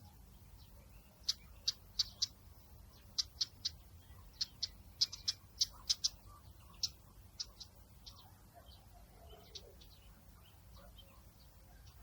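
Small birds giving short, high chirps in an irregular string. The chirps are thickest in the first two-thirds and thin out after about eight seconds, over a faint low background rumble.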